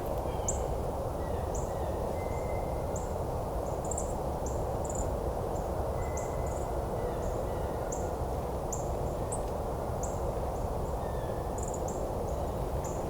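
A small songbird gives short, high, thin call notes, one or two a second, over the steady low hum of distant highway traffic.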